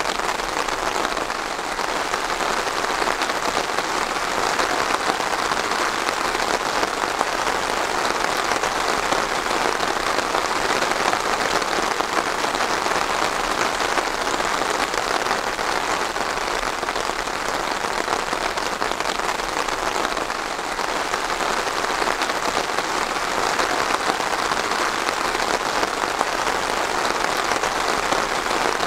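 Steady rain falling on a surface, a dense even patter with no breaks.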